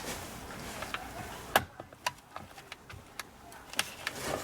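Scattered light metallic clicks and taps, the loudest about a second and a half in: an Allen key probing the small release hole in a Ford Escape's steering column to push up the ignition lock cylinder's retaining pin.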